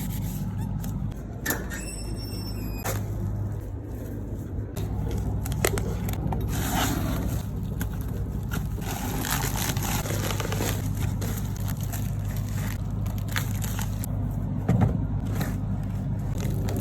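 A steady low motor hum with scattered scrapes and clicks of washing work, and a brief high-pitched squeak about two seconds in.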